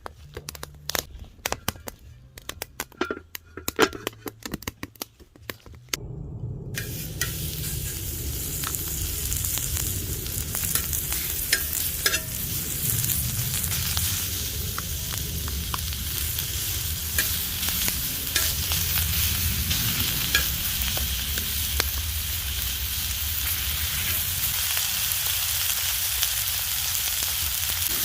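Pork shoulder sizzling as it fries on a cauldron-lid griddle, a steady hiss with small crackles. Before it starts about six seconds in, a scattering of sharp clicks and knocks.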